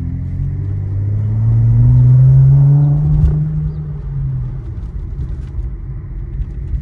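Infiniti Q50 3.0t's twin-turbo V6 heard from inside the cabin, accelerating: the engine note rises over the first two seconds or so, then eases off as the car settles into a steady cruise.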